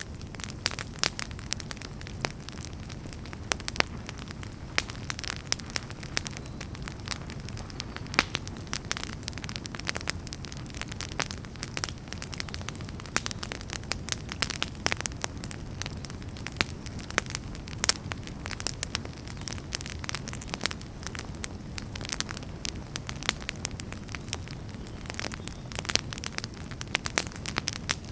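Wood fire burning, with frequent sharp, irregular crackles and pops over a steady low rumble of flame.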